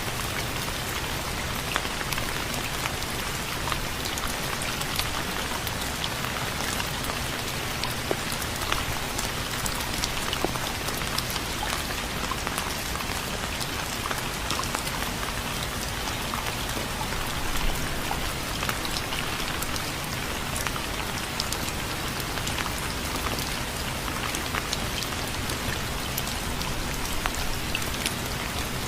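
Steady rain falling, a constant hiss with many small drop taps.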